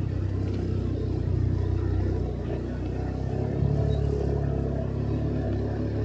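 Motorcycle engine running while riding, a steady low hum that rises slightly in pitch about three and a half seconds in, over road and wind noise.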